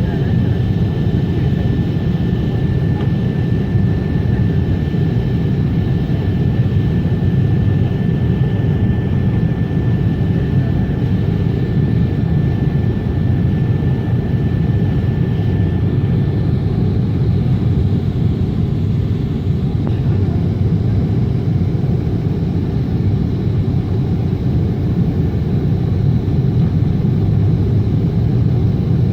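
Steady low rumble of a Boeing 777's engines and airflow heard from inside the passenger cabin. A thin steady high whine fades out a little over halfway through.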